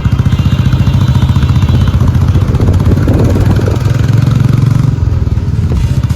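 Motorcycle engine running steadily at road speed, an even low pulsing.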